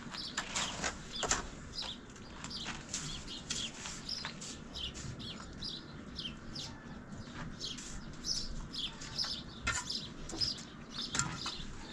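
Small birds chirping over and over in quick, high, downward-sliding chirps, with a couple of sharp knocks about a second in.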